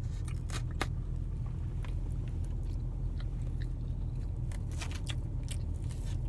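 A person chewing and biting food close to the microphone, with scattered short crisp clicks from the mouth, over a steady low hum.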